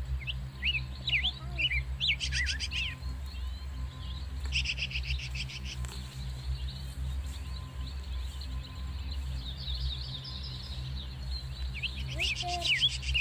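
Small birds chirping and calling in many short quick notes, with rapid trills about two seconds in, around four and a half seconds in and near the end, over a steady low hum.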